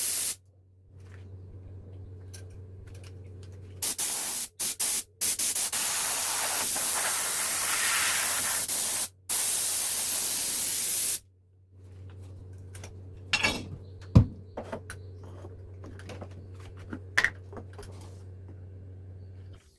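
Compressed air hissing out of a homemade air compressor built from a refrigerator compressor, in loud bursts that start and stop abruptly. Between the bursts a low steady hum runs, with a few sharp clicks.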